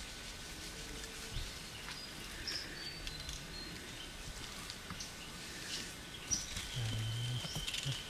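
Forest birds calling with short high chirps and whistles, over a faint steady background of forest insects. A steady high insect tone comes in about six seconds in, and there is a brief low hum about seven seconds in.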